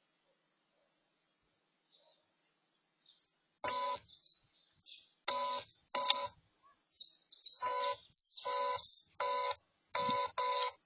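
A bird calling repeatedly in short, loud notes, one or two a second, starting about a third of the way in after near silence.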